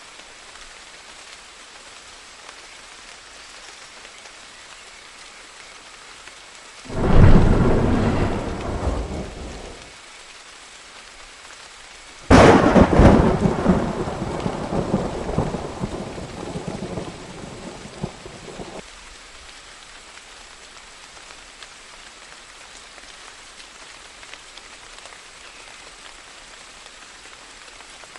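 Steady rain falling, with two claps of thunder. The first comes about seven seconds in and rumbles away over a few seconds. The second, sharper and louder, comes a few seconds later, rumbles on for several seconds and then cuts off suddenly.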